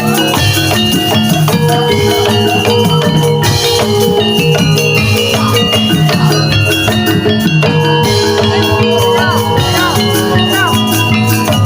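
Javanese gamelan music for a jaranan dance, played loud and steady. Struck bronze metallophones ring over a drum pattern, with a few short pitch glides near the end.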